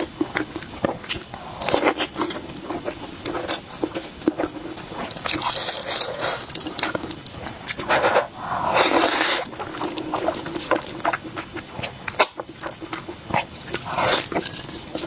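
Close-miked eating sounds: wet chewing and lip-smacking clicks, with a few longer hissing bursts, the longest about nine seconds in.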